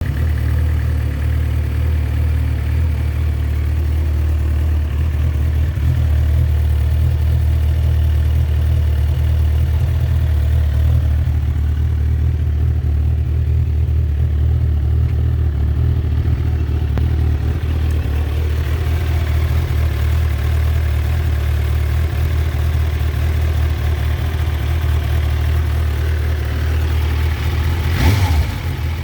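Suzuki GSX-R1000 superbike's inline-four engine idling steadily, with a brief sharp sound near the end.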